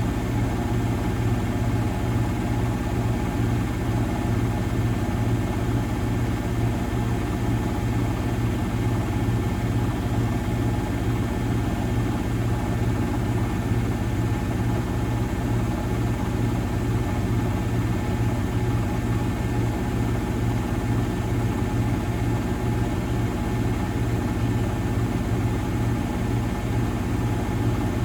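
Miele Novotronic W921 front-loading washing machine running with a steady, unbroken hum.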